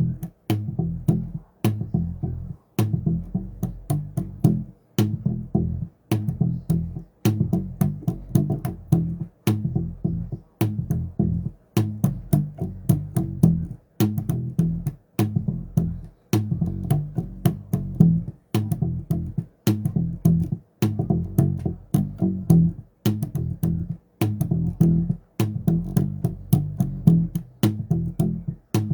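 Bass guitar playing a fast, rhythmic line of low plucked notes with sharp, clicking attacks, broken by short gaps every second or two.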